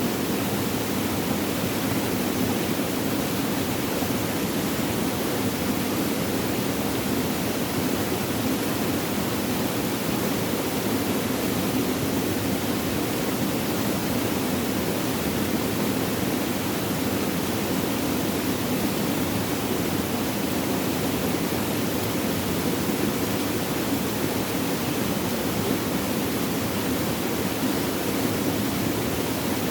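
Flowing water babbling steadily, an even unbroken rush with no pauses or distinct splashes.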